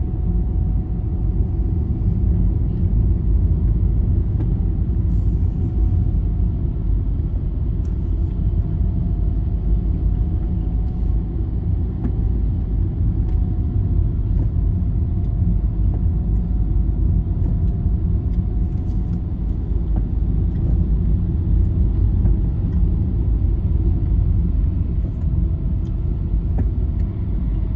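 Steady low rumble of a vehicle travelling on a highway, heard from inside, with a faint wavering hum running through it.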